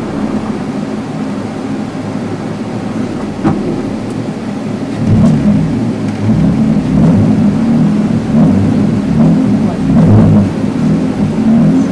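Rally car engine running, a low rumble that grows markedly louder and choppier about five seconds in.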